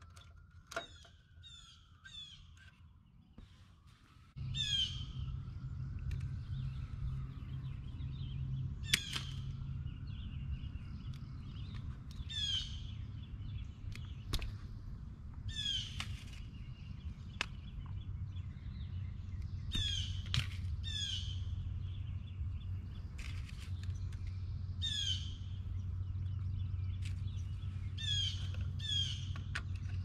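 Songbirds singing short repeated phrases every few seconds, with a few sharp clicks. About four seconds in, a steady low hum starts suddenly and runs on under the birdsong.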